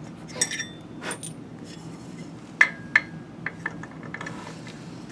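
Metal tools and hardware clinking against each other, several sharp clinks with short metallic rings, the loudest two close together a little past halfway, over a low steady hum.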